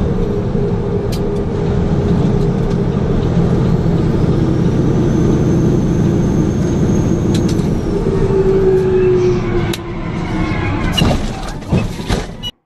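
Loud road vehicle noise, engine and tyres running steadily, with a tone that dips in pitch near the middle and a few sharp knocks near the end.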